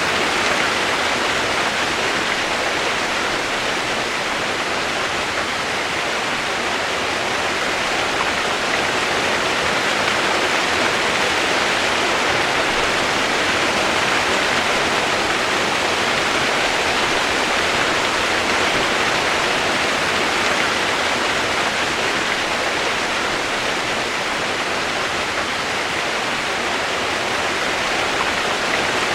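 Steady rush of running water: an even hiss that holds level throughout, with no single splashes standing out.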